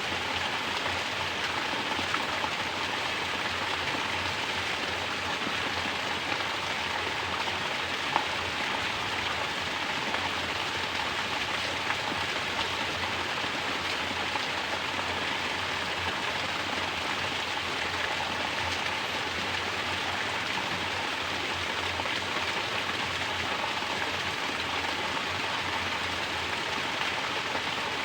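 Mountain spring water pouring down in a steady natural shower, splashing continuously, with a few louder single drop impacts here and there.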